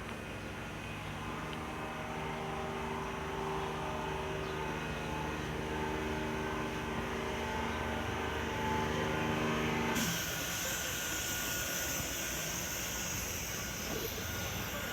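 A tram running, giving a steady hum made of several held tones. About ten seconds in, the hum cuts off suddenly and a steady high hiss takes over.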